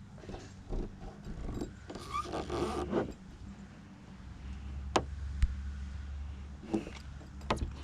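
Double-sided mounting tape being pulled off its roll with a rasping tear about two seconds in, followed by a few sharp clicks of handling.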